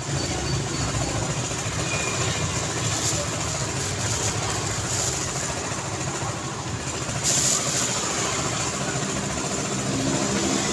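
Road traffic: a steady rumble of vehicle engines and tyres, with a short burst of hiss about seven seconds in. Near the end an engine hum holding a steady pitch grows louder.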